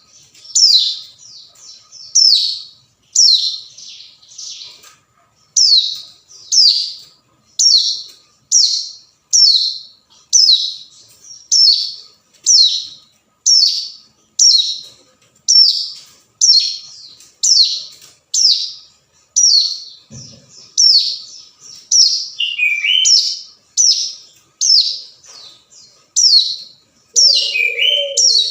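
Ciblek gunung, a prinia, calling over and over with short, high, downward-sweeping notes at about two a second, sometimes in pairs. This is the challenge call used to lure a rival. A lower hooting note comes in near the end.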